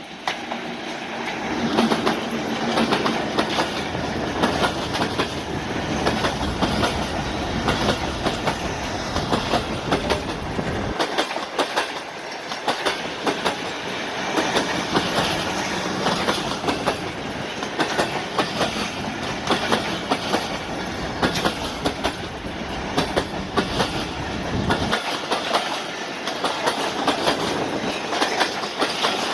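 Passenger express train passing at speed, its wheels clattering over the rail joints in a dense, steady clickety-clack. It comes up loud within the first two seconds, with a deep rumble under the clatter for much of the pass.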